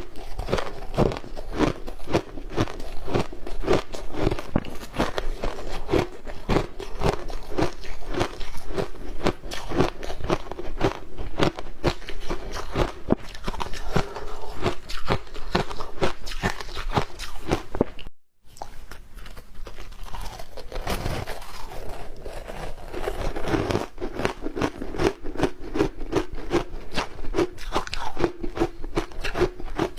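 Close-up crunching and chewing of matcha-powdered ice, a dense run of irregular sharp crunches. It breaks off for an instant just past the middle, then the crunching resumes.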